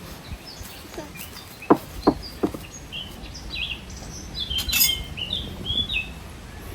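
Birds chirping in short, high calls, with three sharp knocks about two seconds in.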